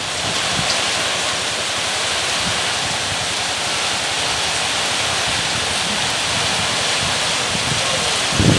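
Heavy rain falling steadily, an even hiss, with a short low bump near the end.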